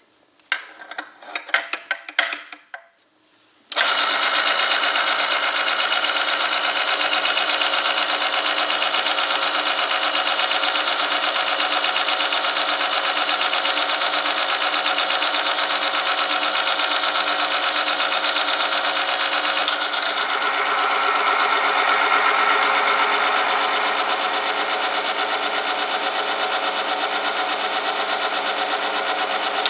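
A few knocks and clicks, then about four seconds in an oil film-strength test machine starts and runs steadily. Its electric drive whines while the spinning part rubs metal on metal against the oil-coated sample. The tone shifts slightly about twenty seconds in.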